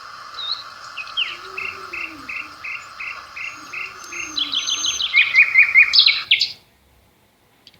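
Several birds singing and chirping over a steady insect drone. One call repeats evenly about three times a second among quicker trills, and everything cuts off suddenly about six and a half seconds in.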